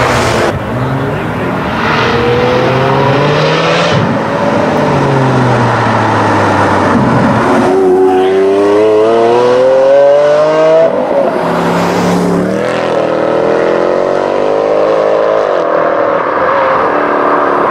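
DMC-tuned Lamborghini Aventador LP988 Edizione GT's V12 engine accelerating hard, loud, its pitch climbing in long sweeps and dropping back sharply at each upshift, three or four times over.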